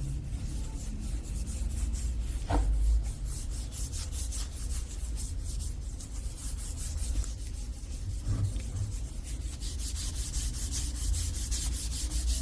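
Rapid hand-driven abrasive rubbing strokes on the cleaver, several a second, growing louder over the last few seconds.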